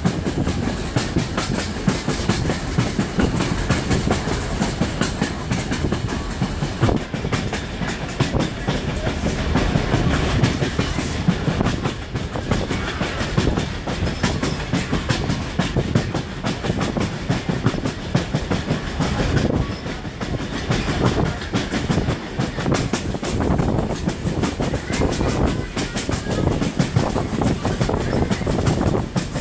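Passenger train coach rolling along the track: a steady rumble of the wheels on the rails with rapid clicking and rattling throughout.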